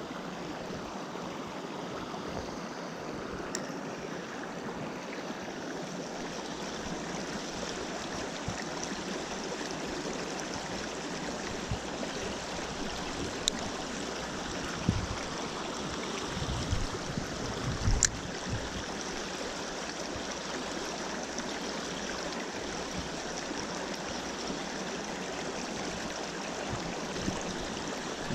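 Small mountain stream running steadily over rocks, a continuous rush of water. A few sharp clicks and low thumps come through it, the loudest about two-thirds of the way in.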